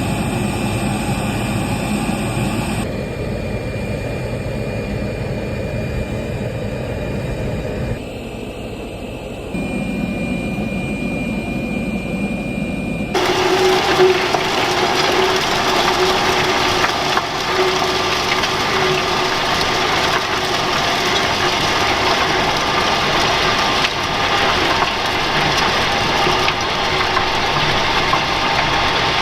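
Tractor engine running steadily, with the sound changing abruptly a few times and fuller after about thirteen seconds.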